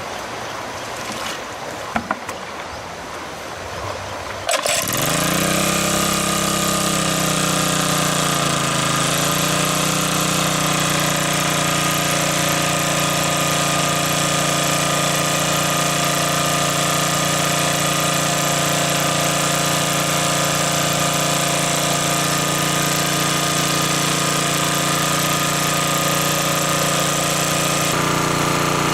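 A small engine starts up about four and a half seconds in, its pitch rising and wavering briefly before it settles into a steady run.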